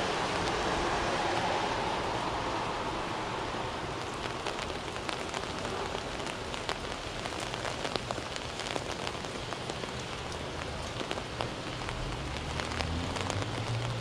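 Raindrops ticking irregularly on an umbrella overhead, with a rushing wash that fades over the first few seconds and a low hum coming in near the end.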